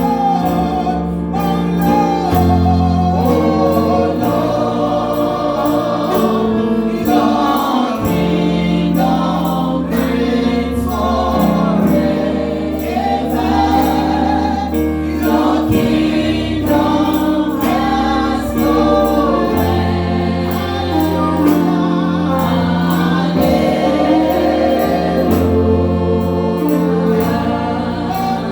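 Gospel choir singing a worship song with a band backing it, over sustained keyboard chords and a steady bass line.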